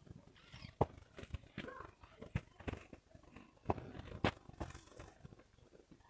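Irregular light knocks and steps, one or two a second, with faint voices in between.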